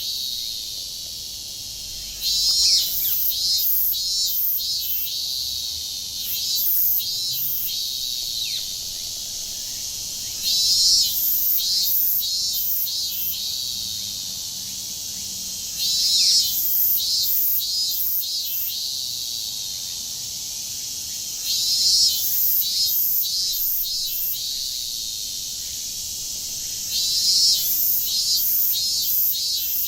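Summer cicadas in Japan droning steadily in a high hiss. A loud phrase of several quick, very high pulsed notes breaks in about every five seconds, six times in all, over fainter bird chirps.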